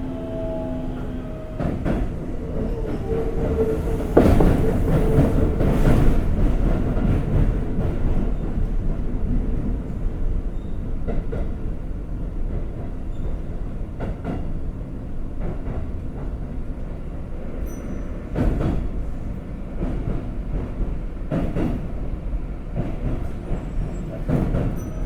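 Keikyu 1500 series (1700 subseries) electric train running, heard inside the front car: a steady rumble of wheels on rail, broken by sharp clacks as the wheels cross rail joints and points. Faint pitched tones from its Toyo GTO-VVVF inverter can be heard at the start and again near the end.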